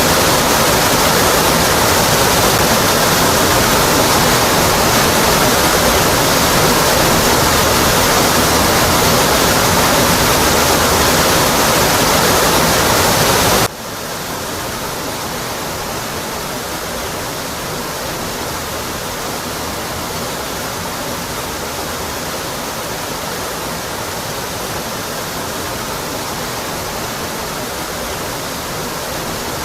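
Waterfall: a steady, full rush of falling water. About halfway through, the sound drops suddenly to a softer rush with less top end, then runs on steadily.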